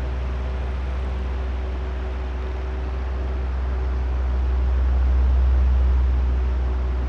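Oscillating electric fan running: a steady rush of air from the blades over a low motor hum with faint steady tones. The sound swells gradually to its loudest about five seconds in and then eases as the head turns back and forth.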